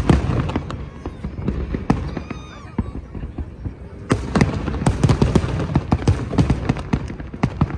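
Fireworks going off: a loud bang at the start, scattered bangs, then a rapid run of bangs and crackles from about four seconds in.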